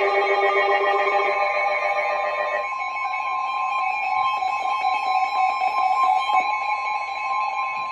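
Weather radio receiver sounding the NOAA Weather Radio warning alarm tone: a single steady high tone over static hiss that starts about two and a half seconds in and cuts off near the end. Before it, a denser cluster of several steady tones sounds together.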